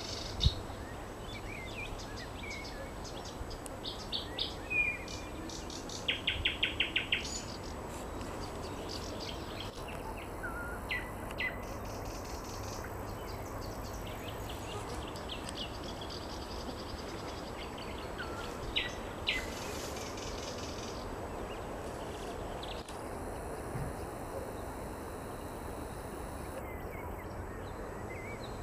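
Nightingale singing: separate phrases of rapid repeated notes, sharp clicks and short whistles, strongest in the first several seconds and sparser after, over a steady background hiss.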